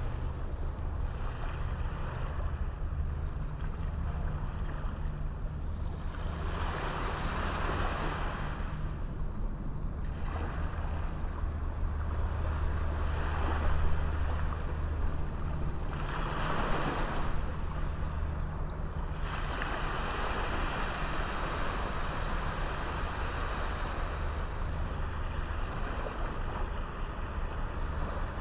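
Waves breaking and washing up on a small beach, surging every few seconds, with a steady low rumble of wind on the microphone underneath.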